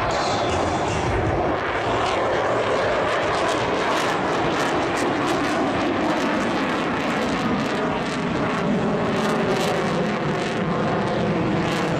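Military jet aircraft flying a display pass, its jet engines making a steady, loud noise with slowly shifting tones.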